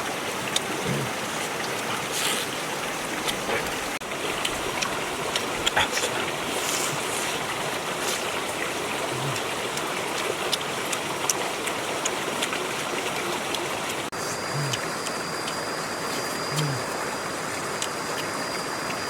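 Steady rush of flowing water with scattered small clicks and taps. A thin, high steady tone joins about fourteen seconds in.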